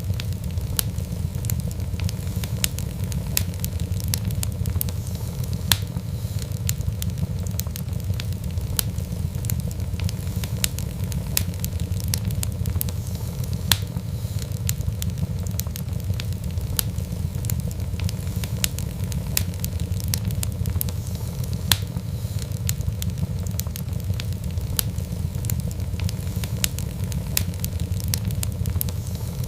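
Fireplace fire crackling, with frequent irregular sharp pops and snaps over a steady low rumble of flames.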